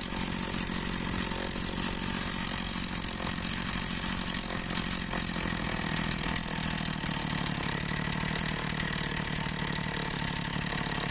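Dolmar MS 4010 brushcutter's two-stroke engine running, ticking over evenly. It has just been rebuilt with a new piston ring, and the compression is restored.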